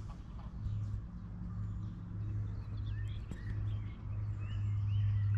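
Birds chirping in short rising-and-falling calls from about three seconds in, over a steady low hum.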